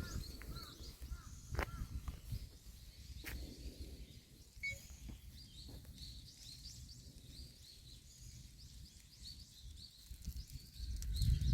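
Small birds chirping repeatedly over a low, uneven outdoor rumble, with a few faint clicks; no engine is running.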